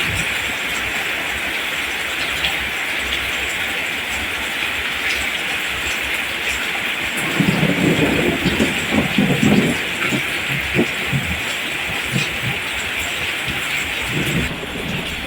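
Steady rain, an even hiss. About halfway through comes a couple of seconds of irregular low rumbling, with a brief return of it near the end.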